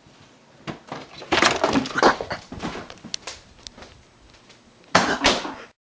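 Clattering knocks and thuds of a cat scrambling on top of a fridge and falling off, with a first cluster of bangs about a second in and another loud burst near the end; the sound then cuts off abruptly.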